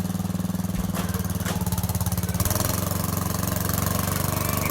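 Lawn tractor's single-cylinder engine running steadily under way, its pitch stepping up a little about halfway through.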